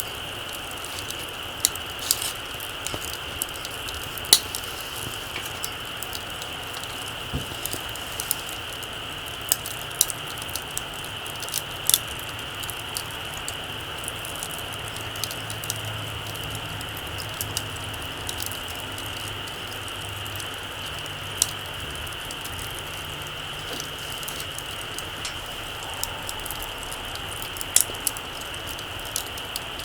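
Small wood campfire crackling: scattered sharp pops and ticks at irregular intervals over a steady hiss, a few of them louder snaps.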